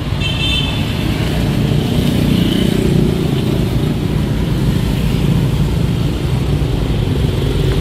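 BAIC X55's 1.5-litre turbo petrol engine running, heard close up under the open bonnet. It is a steady low running sound that swells a little around two to three seconds in, with a brief high whine near the start.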